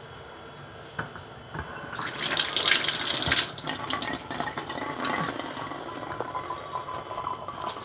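A dog eating noisily from its bowl: wet, irregular chewing and lapping sounds that grow louder about two seconds in.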